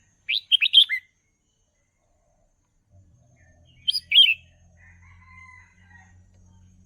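Red-whiskered bulbul song: two short, loud, warbling whistled phrases about three and a half seconds apart, with fainter calls after the second. A low hum comes in about three seconds in.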